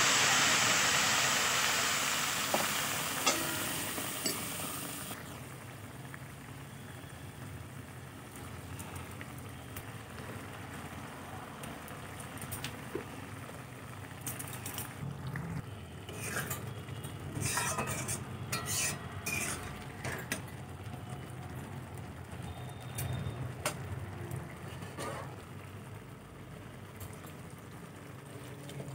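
Boiled masoor dal poured into a hot wok of fried tomatoes and onions, sizzling loudly at first and dying down over the first few seconds. Then quieter sounds of a spoon working in the pan, with scattered clicks and taps.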